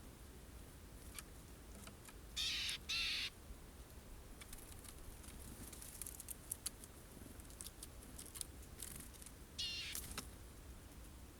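Eurasian jays giving harsh, rasping screeches: two in quick succession about two and a half seconds in, and another near the end. Faint sharp ticks come between the calls.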